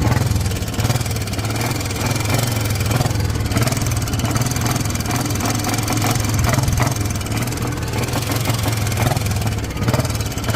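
Old-model Royal Enfield Bullet 350 single-cylinder engine running steadily at idle, with a noise the mechanic traces to the crank.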